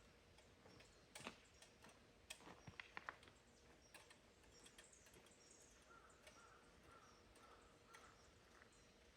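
Near silence, with faint scattered clicks and ticks that cluster between about one and three seconds in.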